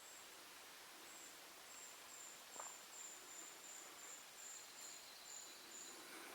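Faint, high-pitched chirps from a small animal, repeating evenly about three times a second over quiet outdoor ambience.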